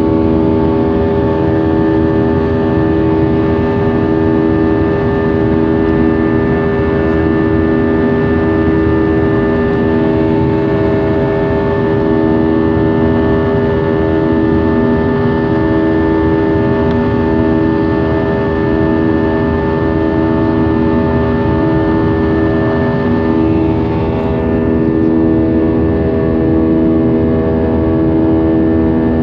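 Airbus A320's jet engines heard from inside the cabin, running steadily as a loud hum of several steady tones over a broad rush, some tones wavering slowly and regularly in and out.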